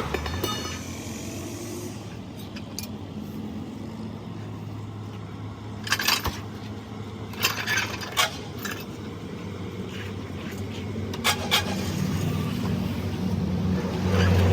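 An engine running steadily, with sharp metal clinks of tools or parts striking metal at about six seconds, twice around eight seconds and twice near eleven seconds; the engine gets louder near the end.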